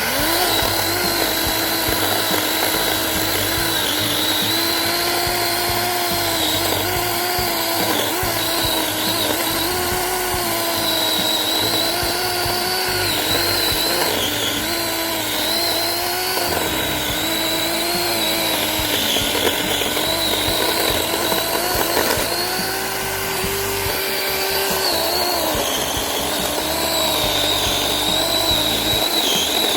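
Cordless electric chainsaw running and cutting wood: a steady motor-and-chain whine whose pitch sags again and again as the chain bites in, then recovers.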